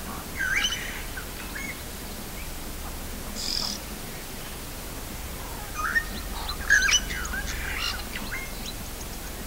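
Birds calling: short chirps and whistles in scattered groups, busiest about six to eight seconds in, over a faint low rumble.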